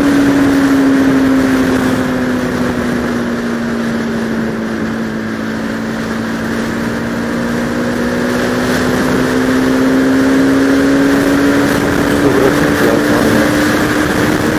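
Bajaj Pulsar RS200 motorcycle's single-cylinder engine running under way, with wind rush over the helmet microphone. Its steady note eases down a little through the middle and climbs again toward the end.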